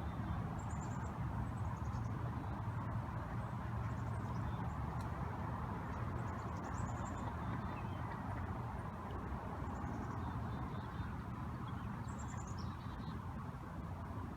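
Small birds giving short, high, falling calls about six times, over a steady rushing background noise.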